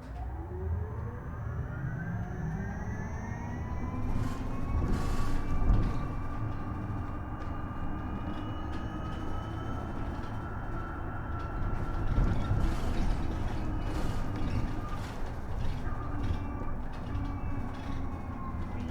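Isuzu Erga EV electric bus accelerating, its traction motor whine rising in pitch over the first few seconds, then holding steady while cruising. The whine falls again near the end as the bus slows, over a low road rumble and cabin rattles.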